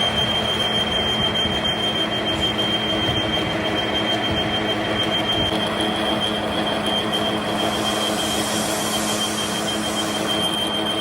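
Workshop machinery running steadily with a continuous high-pitched squeal of metal on metal that starts suddenly, and a rushing hiss that swells for a few seconds near the end.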